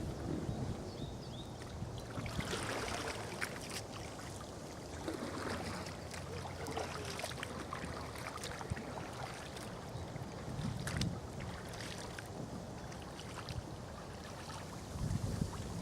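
Water splashing and lapping around an inflatable kayak afloat, with irregular small splashes throughout.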